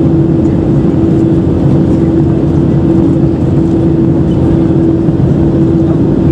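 Cabin noise aboard an Airbus A320-214 with its CFM56 engines running: a loud, steady drone of engines and rushing air, with a steady hum.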